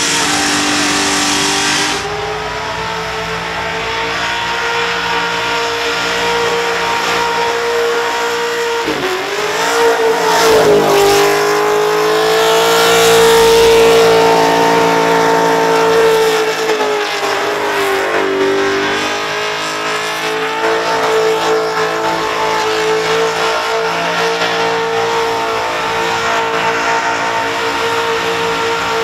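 Holden Monaro burnout car's engine held at high revs with its rear tyres spinning and squealing in a burnout. Twice the revs drop briefly and climb back up.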